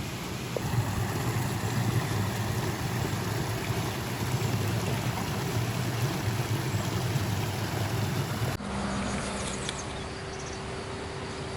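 Steady low running noise of a vehicle in motion, cut off abruptly about three-quarters through and replaced by a quieter steady hum with a faint tone.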